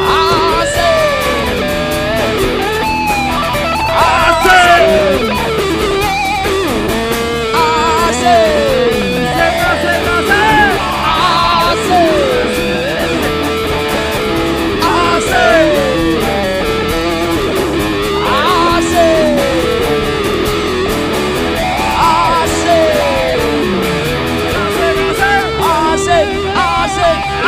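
Rock band playing an instrumental break, a lead guitar soloing over the band with a falling slide repeated every few seconds and wavering held notes. A single shout of "asik" about five seconds in.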